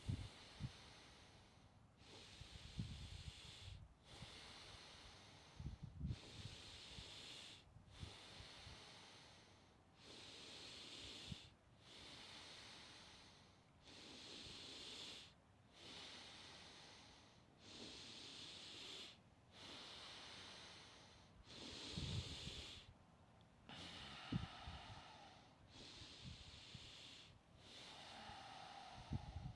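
A person doing Wim Hof power breathing: deep, rapid breaths drawn in and let out with a hiss, about one every two seconds, faint and evenly paced.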